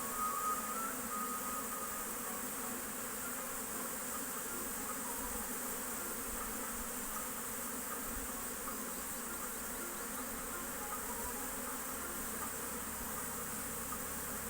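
Swarm of honey bees buzzing steadily at a beehive.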